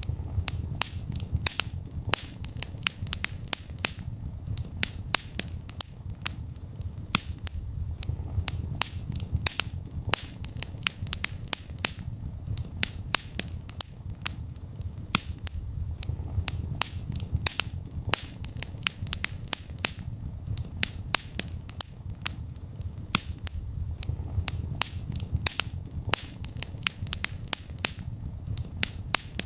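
Wood fire in a fireplace crackling, with many sharp pops and snaps, several a second, over a low steady rumble of the flames.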